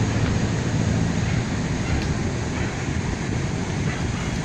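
Steady low wind rumble buffeting the microphone, an even roar without clear tones or separate knocks.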